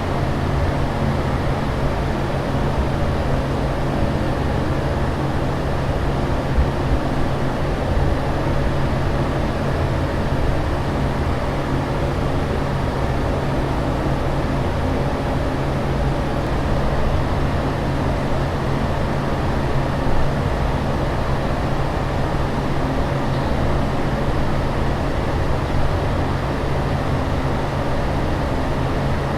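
Steady airliner cabin drone: an even rush of engine and air noise over a low, constant hum.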